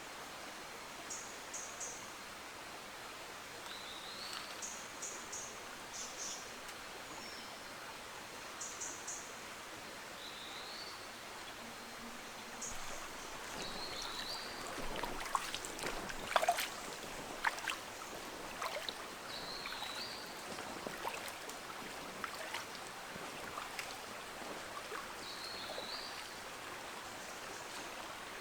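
A forest stream runs steadily while birds call over it: groups of short, high chirps, and a brief rising call repeated about every five or six seconds. About halfway through, a burst of crackling and snapping, like twigs or dry leaves, is louder than the birds for a few seconds.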